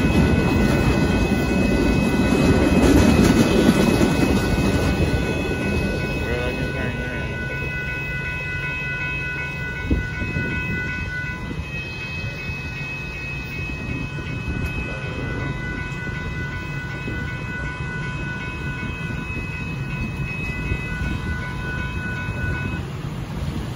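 The tail end of a Union Pacific work train rumbles over a grade crossing and fades after the first few seconds. Throughout, the crossing's warning bell rings as a steady high tone, and it stops near the end. There is a single knock about ten seconds in.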